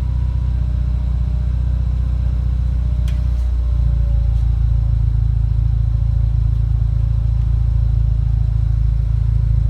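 BMW 125i's turbocharged four-cylinder idling cold through a Don Silencioso 'ROAR' aftermarket exhaust: a steady deep exhaust rumble. About four seconds in, after a brief click, the rumble steps up slightly in level and pitch and holds there.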